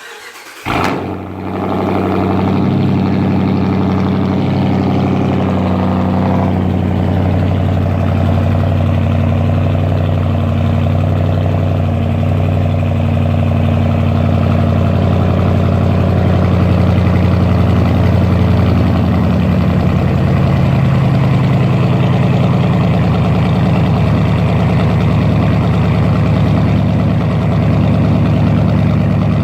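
Straight-piped 2014 Dodge Durango R/T's 5.7-litre HEMI V8, muffler and resonator deleted, starting up: a brief crank, a rev flare as it catches about a second in, then a loud, steady idle. The idle eases down slightly around six seconds in.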